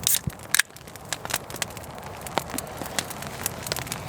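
Campfire crackling and popping at an uneven pace, with two louder sharp cracks in the first second.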